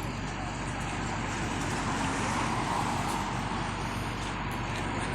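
Steady motor-vehicle noise, a large vehicle's engine running or road traffic going by, swelling slightly about two to three seconds in.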